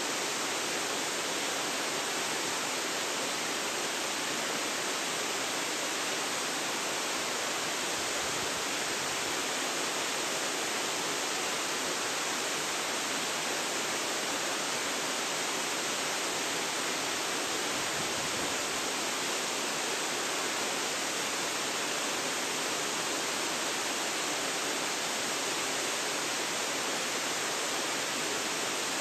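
Waterfall: a steady, unbroken rush of falling water, an even hiss with little bass, picked up by a phone's built-in microphone.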